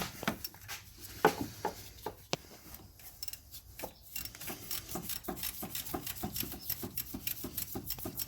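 Socket ratchet clicking as the 14 mm alternator bolt, just broken free, is backed out: scattered metal clicks and a sharp knock about a second in, then an even run of about five clicks a second from halfway on.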